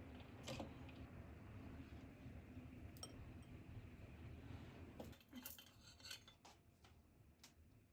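Faint clinks of cutlery against dishes, a few scattered taps and a short cluster of them about five seconds in, over a low hum that fades out at about the same point.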